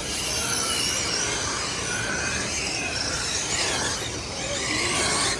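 Several electric RC race cars running on a dirt oval: overlapping high motor whines rise and fall as the cars accelerate and lift around the track, over a steady bed of noise.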